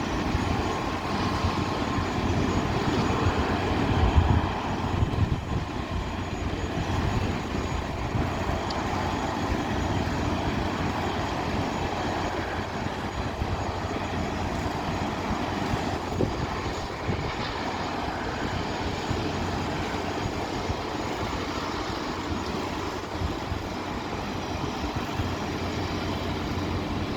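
Boeing 737-300F jet engines heard from the ground as a steady, broad rumble, loudest about four seconds in.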